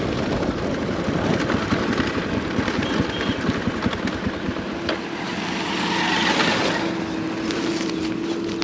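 Dirt bike engine running while riding, with an uneven low rumble; a steady engine note comes in about five seconds in.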